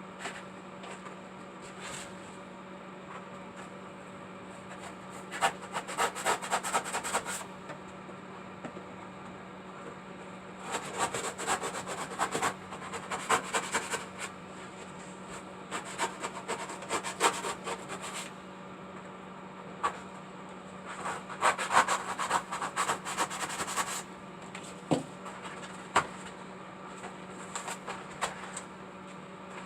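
Scratchy hand rubbing and scraping on a craft material, in four stretches of a couple of seconds each, with a few single knocks, over a steady low hum.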